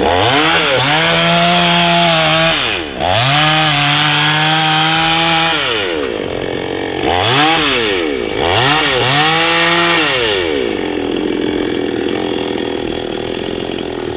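Petrol two-stroke chainsaw revved up to full speed four times, each held for one to three seconds before dropping back, then settling to a steady idle near the end.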